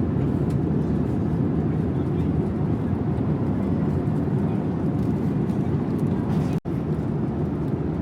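Boeing 787-9 cabin noise: a steady low rush of jet engines and airflow heard inside the cabin, broken by a momentary dropout a little past halfway.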